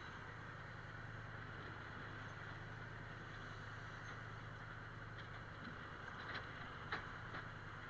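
A steady low mechanical hum, like a distant engine running, with a few faint clicks about six and seven seconds in.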